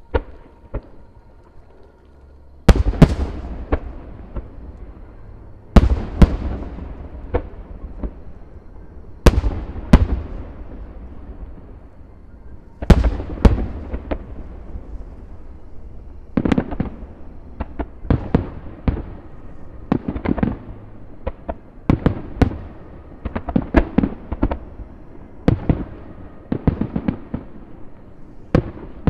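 Aerial fireworks bursting overhead: loud booming shell bursts every few seconds, each with a rolling echo, followed by a quicker run of many sharper cracks and bangs.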